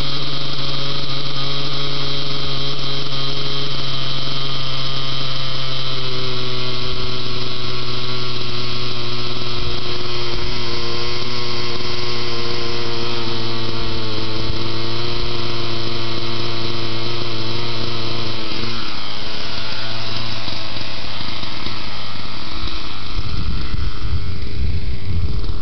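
Radio-controlled helicopter engine running steadily at a high pitch. Its pitch steps up about six seconds in and wavers later on. Near the end the pitch rises, and a low rumble comes in alongside it.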